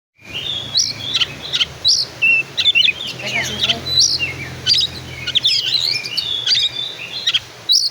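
Oriental magpie-robin (kacer) singing a varied, continuous song of rapid whistles, chirps and quick sweeping notes, over a faint steady low hum.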